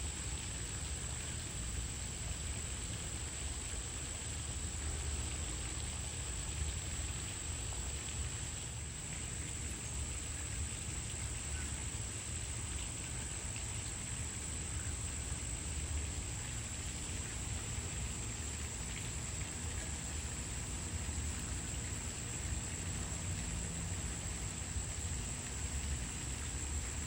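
Steady outdoor ambience: a continuous high-pitched insect chorus over an even hiss and a low rumble, with no distinct events.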